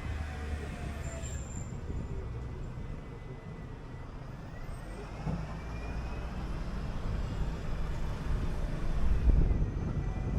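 City bus heard from on board as it drives: a steady low engine and road rumble, with a faint high whine gliding up and down, growing a little louder near the end.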